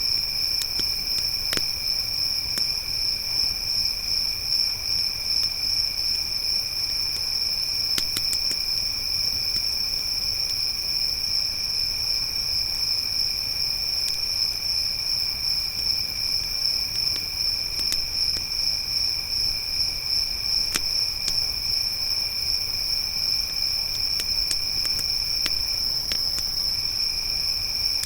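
Crickets chirping in a continuous, steady high trill, with a few scattered sharp pops from a crackling campfire.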